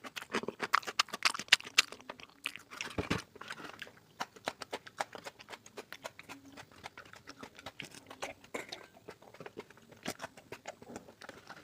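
Close-up chewing and lip-smacking sounds of a person eating mutton curry with rice, with wet clicks and smacks, busiest in the first few seconds and sparser after.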